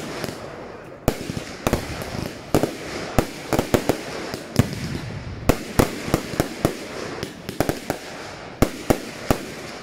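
Fireworks going off: a rapid, irregular run of sharp bangs from shells bursting in the air, several a second at times, over a continuous noisy rush between them.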